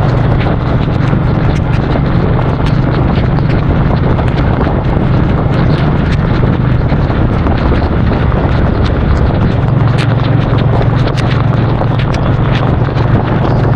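Suzuki Boulevard C50's V-twin engine running at a steady cruise under loud wind rush, with raindrops ticking sharply against the microphone.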